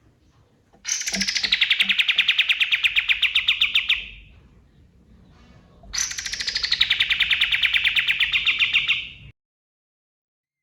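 Kapas tembak songbird singing two fast trills of rapidly repeated sharp notes, each about three seconds long, starting high and dropping to a steady pitch, with a short gap between them.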